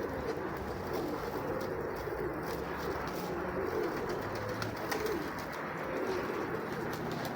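Nikolaev pigeons cooing continuously, several wavering low coos overlapping.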